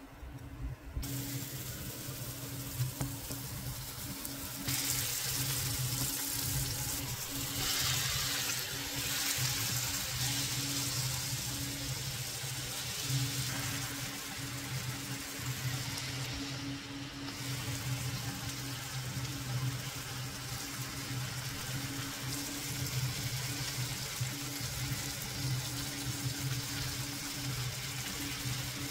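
Chicken pieces with tomato and onion frying in a non-stick pan, a steady hissing sizzle that grows louder about five seconds in, over a steady low hum.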